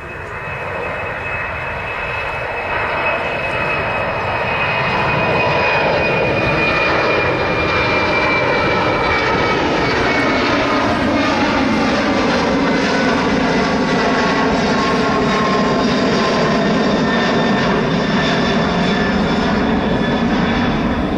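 Large airplane's engines running, growing louder over the first few seconds and then holding steady, with whining tones that slowly fall in pitch.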